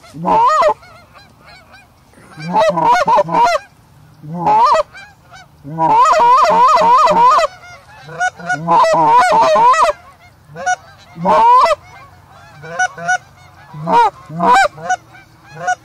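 Goose honks and clucks in rapid runs, coming in about eight bursts with short gaps between them.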